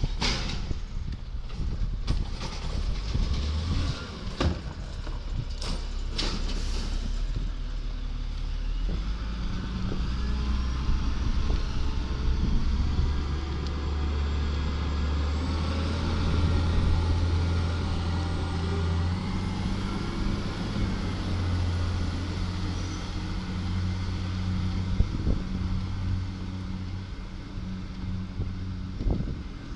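Garbage truck's diesel engine running, with several sharp knocks and clanks in the first seven seconds. From about nine seconds in the engine hum grows louder and steadier, shifting pitch a little around nineteen seconds.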